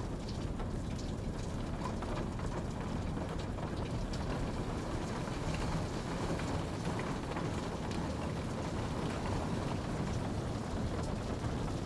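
Steady rain falling, a continuous low rush with scattered drops ticking on a surface.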